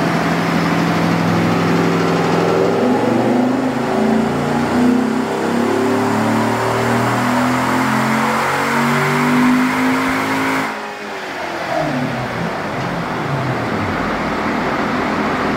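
C7 Corvette's 6.2-litre LT1 V8 making a full-throttle dyno pull. It runs steadily for a couple of seconds, then its note climbs for about eight seconds. Near eleven seconds in the throttle is lifted and the revs fall away quickly.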